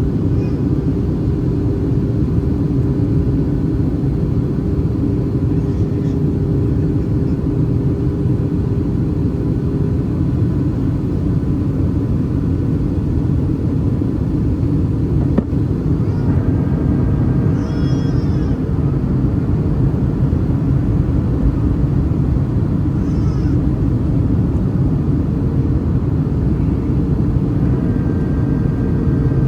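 Steady cabin noise of a Boeing 737-800 in flight, the deep rumble of its CFM56 engines and airflow heard from a window seat over the wing, with a constant low hum running through it.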